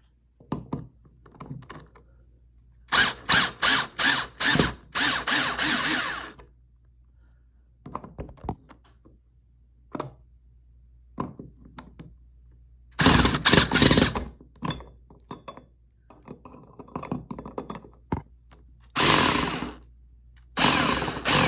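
Power drill-driver running in short bursts, several quick trigger pulls in a row and then longer runs, backing the screws out of a ceiling-fan mounting bracket. Scattered clicks and knocks come between the bursts.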